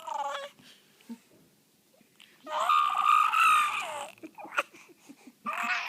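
A young child making high-pitched vocal noises: a short squeal at the start, a long held squeal of about a second and a half in the middle, and another beginning near the end, with a few small clicks between.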